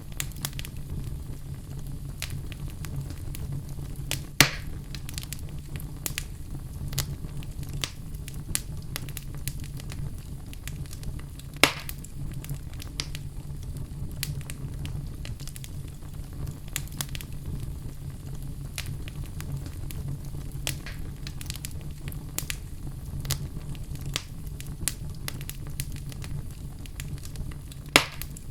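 Fire crackling steadily: a low rumble under constant small pops, with a few louder snaps spread through it.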